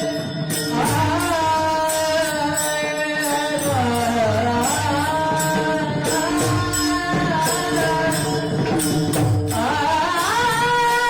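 A man singing a devotional song in long, held, ornamented notes that slide between pitches, over instrumental accompaniment and a regular drum beat.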